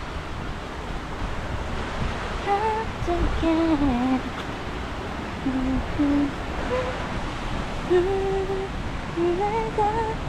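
A person humming a slow tune in held, stepping notes, starting a couple of seconds in, over wind rumble on the microphone.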